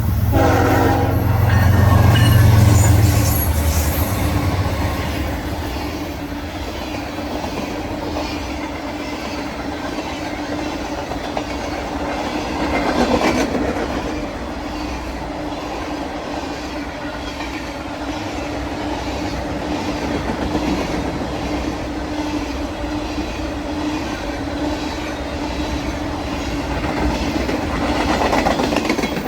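Diesel-hauled freight train passing close by. The locomotives' engines rumble loudest in the first few seconds, then a long string of freight cars rolls past with wheels clacking over the rail joints.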